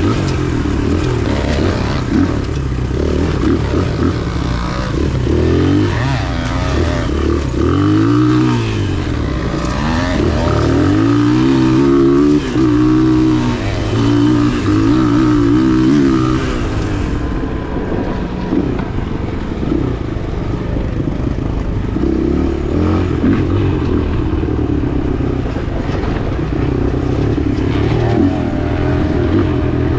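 Dirt bike engine being ridden hard on a trail, revving up and down through the gears in repeated rising and falling sweeps, then holding a steadier pitch for the second half.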